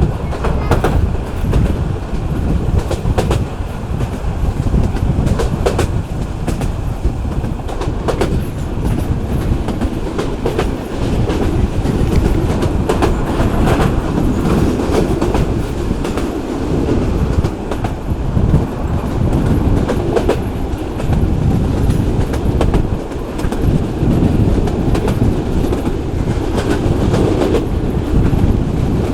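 Local passenger train running along the line, its wheels clattering over the rail joints with a steady rumble throughout.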